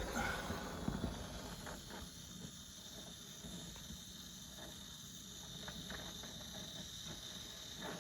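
Brazing torch flame hissing steadily as new lines are brazed onto a replacement refrigerator compressor, with a couple of soft knocks in the first second.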